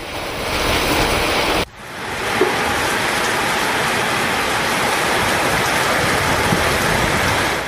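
Heavy rain pouring steadily, a dense hiss of downpour. It breaks off abruptly for a moment about a second and a half in, then comes back just as strong.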